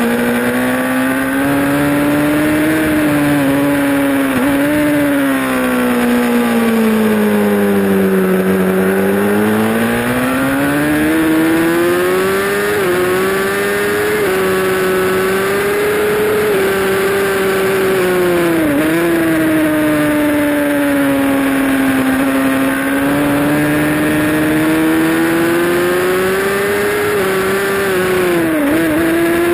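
Honda CBR1000RR inline-four engine running hard at racing speed, heard from on board. Its pitch sinks to a low point about a third of the way in, then climbs and holds high, with several brief sharp dips along the way. Wind rush runs under it.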